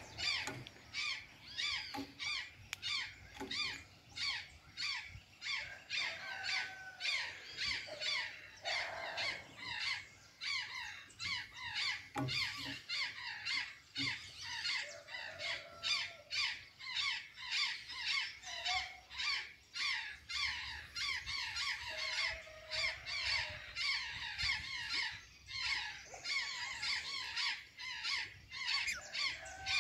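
Azure jays calling: a long run of short, squeaky, squawking calls at about two to three a second.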